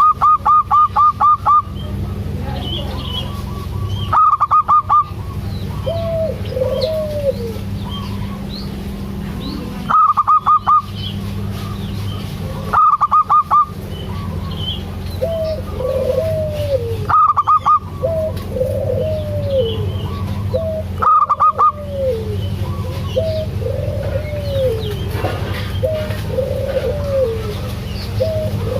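Zebra doves (perkutut) calling. Loud, second-long bursts of rapid repeated notes come every few seconds, with softer, lower arched coo notes in between, over a steady low hum.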